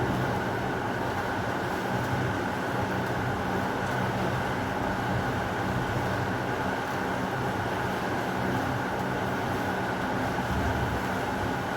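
Heavy rain falling steadily: an even, unbroken hiss with a low rumble underneath and no distinct thunderclap.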